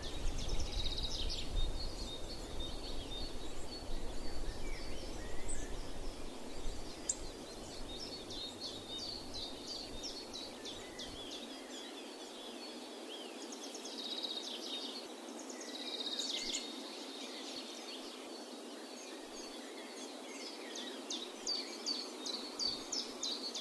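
Several small songbirds chirping and singing in quick high notes throughout, with a low rumble, like wind on the microphone, for roughly the first half.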